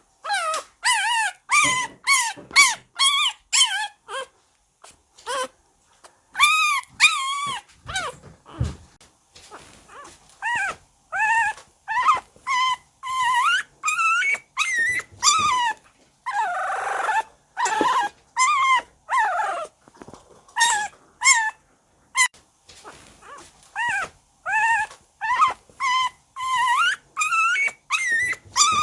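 A puppy whining and yipping in a long run of short, high cries that bend up and down in pitch, with a few brief pauses.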